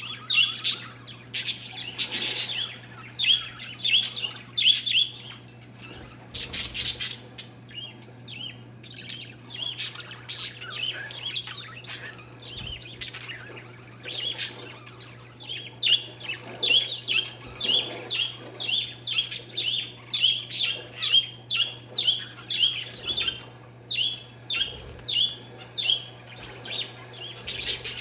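Pet parakeets and zebra finches chirping, a busy stream of short, high repeated calls, several a second, over a steady low hum.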